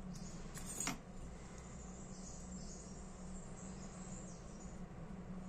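Low steady hum with faint hiss, and one or two soft clicks of small parts being handled in the first second.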